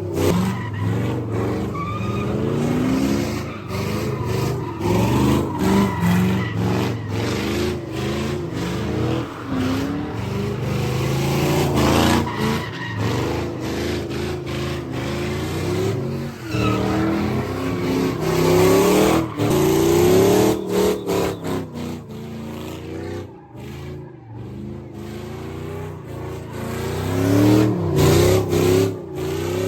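Car engines revved hard over and over, the pitch climbing and falling, with tyres squealing at times. It eases off for a few seconds past the middle, then revs up again near the end.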